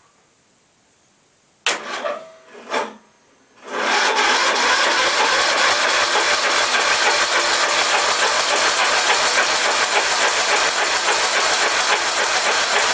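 A riding mower's electric starter cranking its engine: two short bursts about a second apart, then steady cranking from about four seconds in with an even pulse. The engine does not fire, because the spark plug wire is disconnected and the fuel is off.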